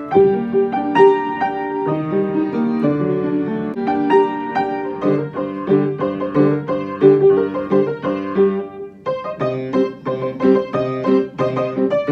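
Piano music, a steady run of notes with a short break a little before 9 seconds in.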